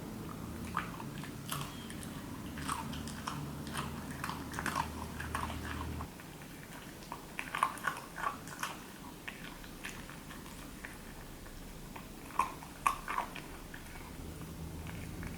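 Chewing and biting: irregular short crisp clicks, heard over a low steady hum that cuts off about six seconds in.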